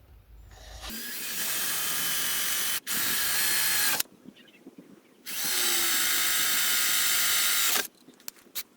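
Electric drill with a small pilot bit drilling holes through a board, in two steady runs of about three seconds each. A few light clicks follow near the end.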